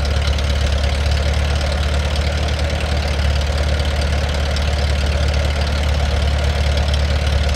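An engine idling steadily, with an even low pulsing throughout.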